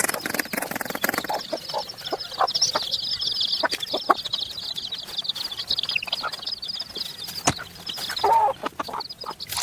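Chickens clucking over a dense, continuous high chirping, with scattered short clicks throughout.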